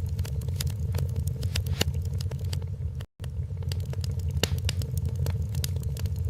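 Wood fire crackling in a fireplace: irregular sharp pops and snaps over a steady low rumble. The sound drops out completely for an instant about three seconds in.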